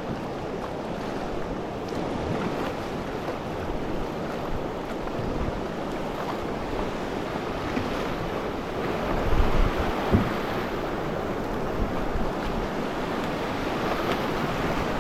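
River water rushing and splashing around a raft, with wind buffeting the microphone. There are a few louder low thumps about nine to ten seconds in.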